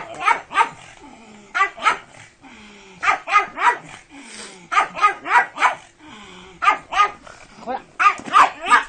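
Pug barking excitedly in quick clusters of two to four barks, each cluster about a second or so apart.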